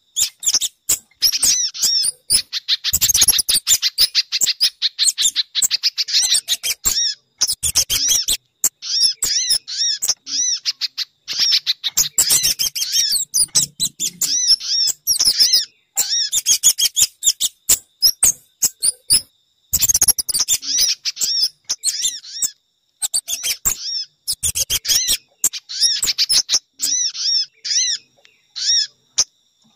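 Bird-lure recording of small songbirds: rapid, high-pitched chirping notes in quick trains with short gaps, with some crackle. It is played to lure sogon, pijantung (spiderhunter) and kemade birds.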